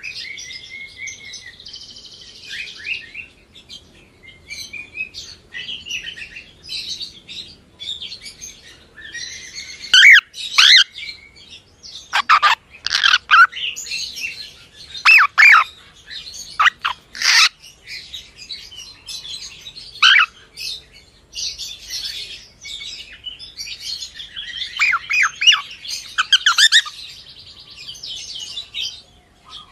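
Cockatiel chirping almost without pause, with loud, sharp calls that glide in pitch clustered through the middle and again near the end.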